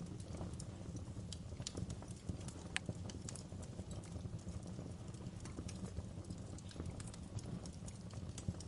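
Campfire burning: irregular sharp crackles and pops of the burning wood, several a second, over a steady low rumble of the flames.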